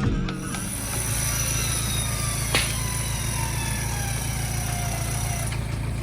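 Vehicle engine running steadily with a low drone and a faint falling whine, with one sharp click about two and a half seconds in.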